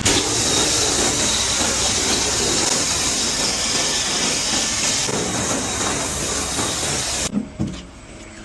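Car wash water jets spraying a car, a loud steady hiss that cuts off about seven seconds in, followed by a couple of short thumps.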